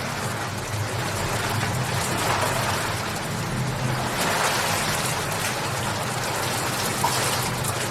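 Steady rain falling: an even hiss of rain with scattered drops pattering, over a low steady hum.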